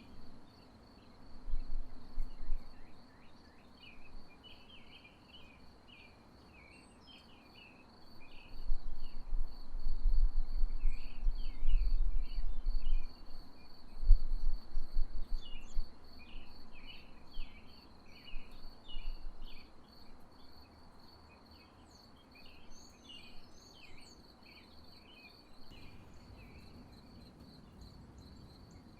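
Steady, pulsing high insect trill with scattered short chirps. From about 8 to 16 seconds a low, irregular rumble comes and goes and is the loudest sound.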